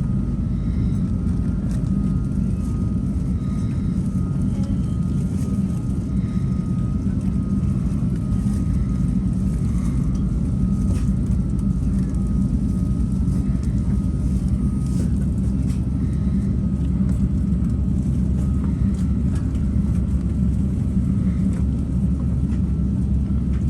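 Jet airliner engines running steadily: an even low rumble with a faint steady whine above it.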